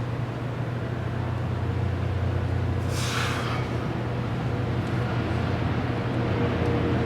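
Steady low hum of a running engine, with a short burst of hiss about three seconds in.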